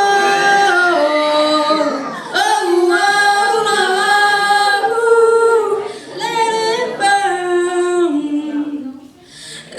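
Female voices singing a cappella: long held notes that step down and up in pitch, with a short lull about nine seconds in.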